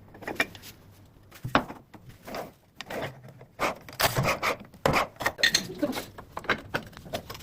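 Tiling work: irregular scrapes and short knocks of hand tools against ceramic tiles and adhesive, growing busier about halfway through.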